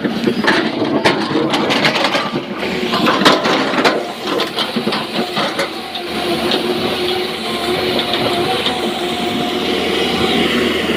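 Rock clattering into a dump truck's steel tipper body as an excavator loads it, a dense run of knocks for about the first four seconds. After that, a diesel engine runs steadily.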